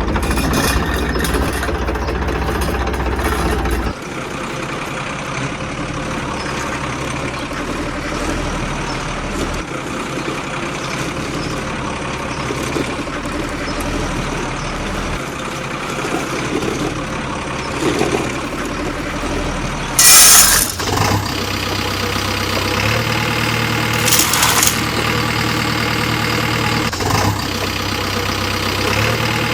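A vehicle engine running steadily, with a loud short hiss about two-thirds of the way through and a smaller one a few seconds later.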